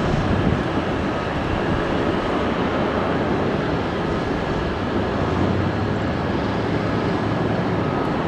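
Jet airliner engines running: a steady loud rumble with a faint thin whine on top.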